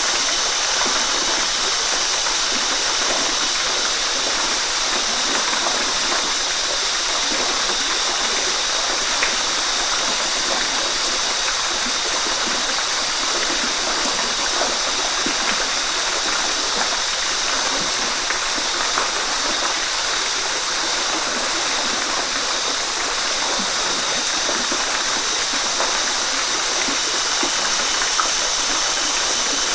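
Waterfall: water falling and rushing over rocks in a steady, even hiss with no let-up.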